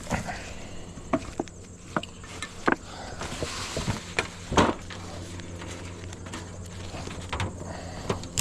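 Honey bees buzzing steadily around an open hive, with scattered irregular clicks and knocks as a ratchet strap is cinched down around the hive boxes.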